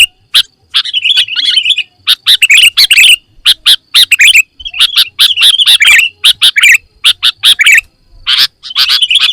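Sooty-headed bulbul (kutilang) singing loudly in quick bursts of chirping, varied phrases with short pauses between them.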